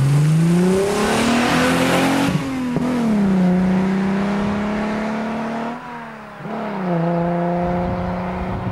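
Alfa Romeo 75's 3.0-litre Busso V6 accelerating away hard, its engine note climbing, then dropping sharply about two seconds in and again near seven seconds as it changes up, before steadying.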